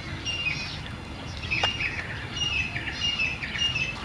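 Birds chirping and calling repeatedly in the background, over a low outdoor hum, with one short click about a second and a half in.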